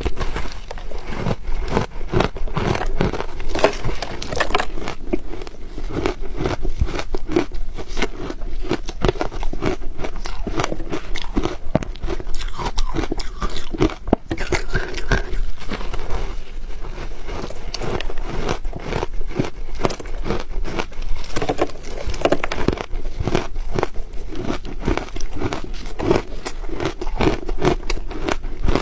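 Ice being bitten and chewed close to the microphone: a dense, unbroken run of crisp crunches and crackles.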